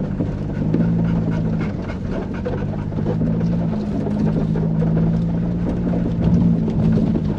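Off-road truck engine droning steadily at low speed on a rough trail, with scattered knocks and rattles throughout.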